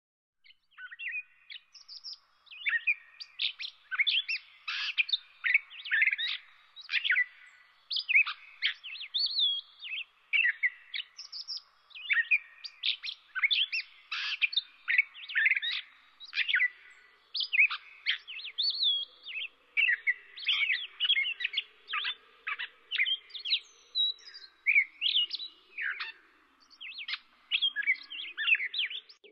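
Birds chirping and singing in quick, overlapping, warbled notes that go on without a break.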